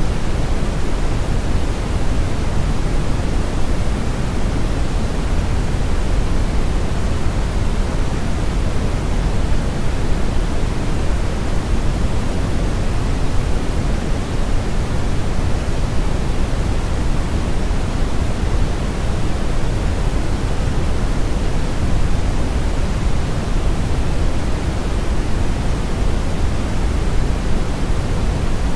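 Steady brown noise: an even, unbroken rumbling hiss, strongest in the bass and falling away toward the treble.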